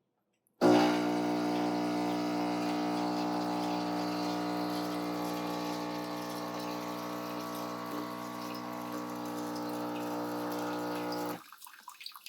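MIROX espresso machine's pump running steadily while pulling a shot, starting abruptly about half a second in and cutting off sharply near the end, followed by faint dripping.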